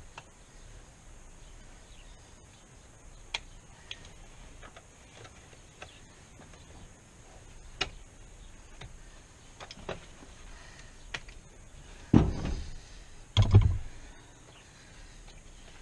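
Scattered light clicks and taps from work on a GMC Suburban's door, followed near the end by two heavier, low thumps with a short rattle, about a second apart.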